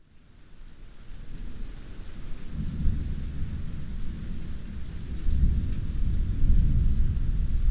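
Heavy rain with a low rolling rumble of thunder. It fades in from silence at the start, and the rumble swells about two and a half seconds in.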